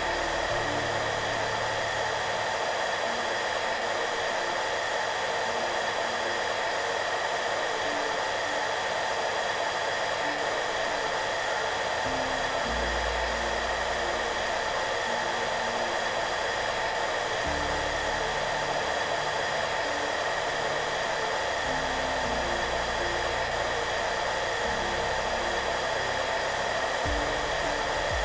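Electric hair dryer running steadily, an even blowing noise with a few steady tones in it, over soft background music whose low notes change every few seconds.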